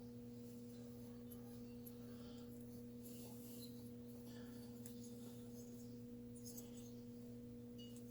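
Near silence with a steady low electrical hum and a few faint small clicks.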